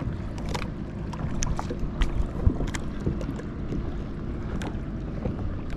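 Water splashing and lapping around a kayak, with scattered small, sharp splashes and knocks at uneven intervals and wind noise on the microphone.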